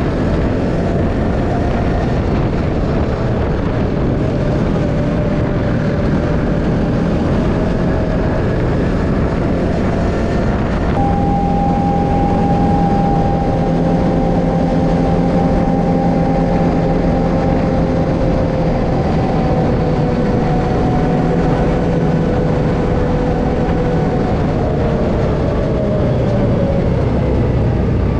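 A motor vehicle's engine running at a steady cruise, its tone holding nearly constant and drifting only slowly in pitch. About eleven seconds in, the sound changes abruptly to a clearer steady tone.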